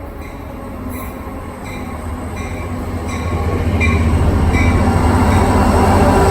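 An NJ Transit train approaching through the station, its rumble growing steadily louder, with short high tones repeating about every three-quarters of a second.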